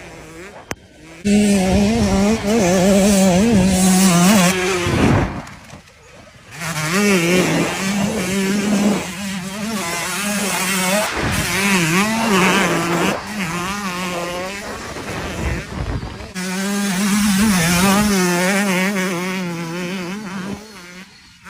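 KTM 150 SX two-stroke single-cylinder dirt bike engine revving high, its pitch wavering up and down as the throttle is worked. It drops off briefly three times, about five, eleven and sixteen seconds in.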